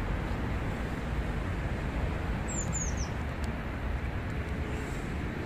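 Steady outdoor background noise with a low rumble. About two and a half seconds in, a bird gives three quick high chirps, each falling in pitch.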